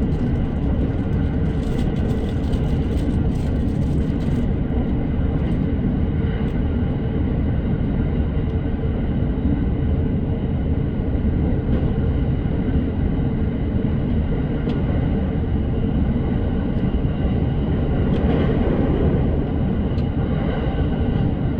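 Steady running noise of an electric commuter train in motion, heard from inside the car: a dense low rumble of wheels on rail with a faint steady hum and a few faint clicks.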